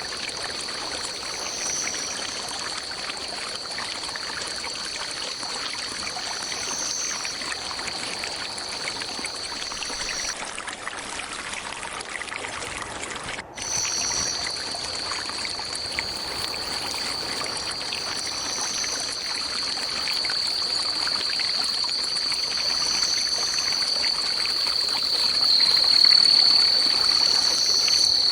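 Stream water flowing steadily under a continuous high drone of insects with pulsing higher calls. The insect drone stops about a third of the way in and returns about halfway, after a sudden brief drop in all sound, and grows louder near the end.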